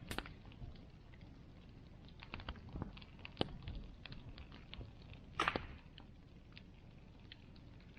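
Bonfire crackling: burning wood giving off scattered small snaps and pops, with a louder pop about five and a half seconds in.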